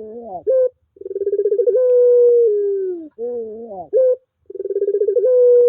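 Puter pelung dove cooing over and over. Each coo opens with a quick stuttering run of notes, settles into a long steady note and then drops in pitch, and short rising, wavering phrases come in between.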